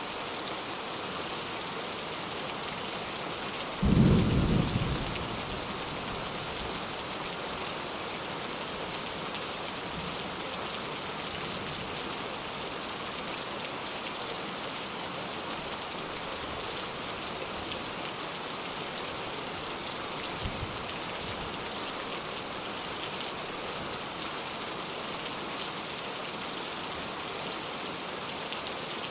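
Steady heavy rain with a single loud, low thunderclap about four seconds in that fades over a second or two, and two faint low thumps later on.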